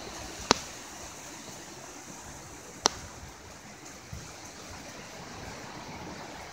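Steady hiss of hurricane rain and wind, with two sharp clicks, one about half a second in and one near three seconds.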